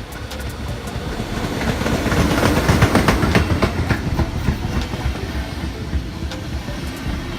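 A train passing, its wheels clicking over rail joints. The sound swells to its loudest about three seconds in, then goes on steadily as the cars run by.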